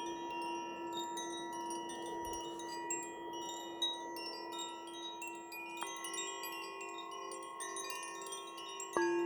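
Metal chimes ringing: deeper bell-like tones are struck about six seconds in and again near the end, each ringing on long and steady, under a continuous tinkle of small high chimes.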